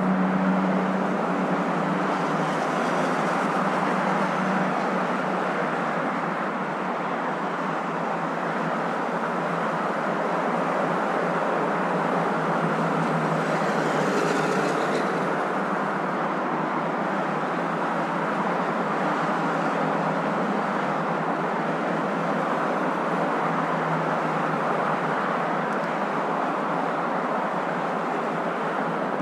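Steady road and engine noise of a moving car, an even hum and rush with a faint extra hiss about halfway through.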